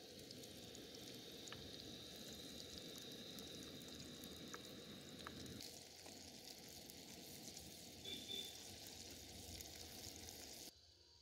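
Garlic and onions faintly sizzling in hot oil in a black pot, with a few light clicks from a metal spatula stirring them; the sizzle cuts off suddenly near the end.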